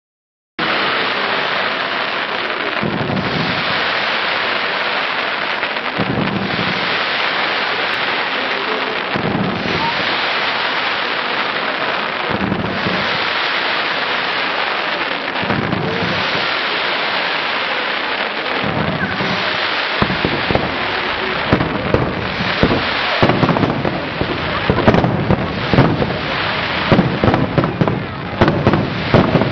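Fireworks going off: a dense, continuous crackle like heavy rain, with a deeper boom about every three seconds. From about twenty seconds in, sharp bangs come in quick, growing succession.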